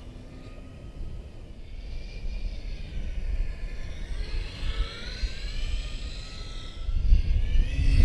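Electric RC propeller warbird flying by, its motor and propeller whine rising in pitch as it approaches and dropping sharply as it passes close near the end. Gusting wind rumbles on the microphone, loudest in the last second.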